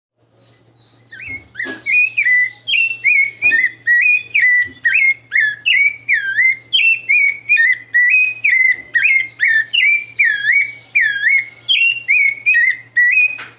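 A songbird singing a long, fast run of clear whistled notes, each a short slurred note, about two or three a second. A faint steady low hum lies underneath.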